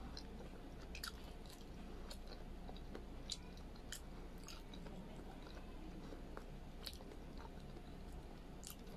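Faint chewing of braised pork humba: scattered soft mouth clicks every second or so over a low steady hum.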